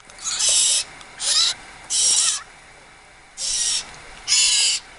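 Young blue jays giving harsh, raspy begging calls, five in a row, each about half a second long, at feeding time.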